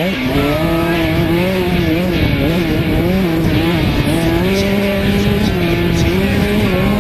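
KTM 65 two-stroke motocross bike engine revving hard as it is ridden, its pitch rising and falling over and over with the throttle and gear changes.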